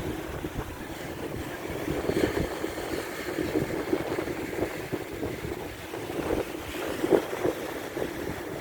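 Wind gusting hard against the microphone, with rough water, in uneven surges; the strongest gust comes about seven seconds in.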